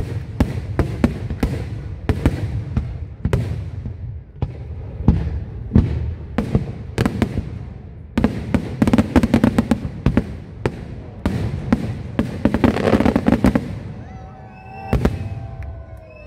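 Professional aerial firework shells bursting in quick succession, a steady run of sharp bangs. There are two spells of dense, rapid crackling, about eight and twelve seconds in. The bangs thin out near the end.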